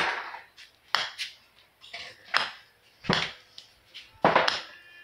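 Dishes clinking and knocking: a handful of separate knocks at uneven intervals, some ringing briefly.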